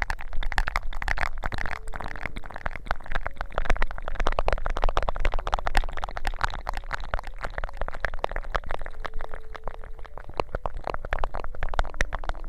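Close-microphone ASMR crackling and scratching: a dense, rapid run of small crackles and rubs.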